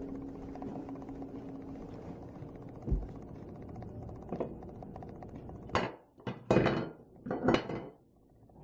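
A few knocks and thuds over a steady low hum: one knock about three seconds in, then a run of louder clattering knocks in the last third.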